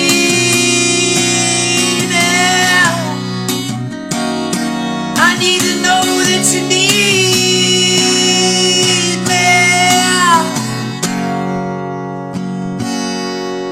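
Live acoustic guitar strummed and ringing, with a held, wavering melody line sung over it in three phrases. The playing eases off and fades over the last few seconds.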